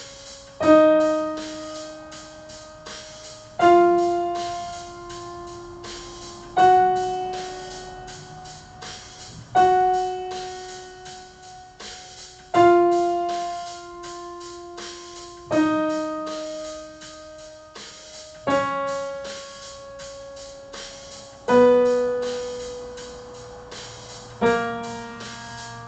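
Keyboard playing the F-sharp major scale in slow whole notes, each note doubled in octaves, struck about every three seconds and left to ring and fade as the scale steps up and back down. A faint steady drum beat ticks along underneath.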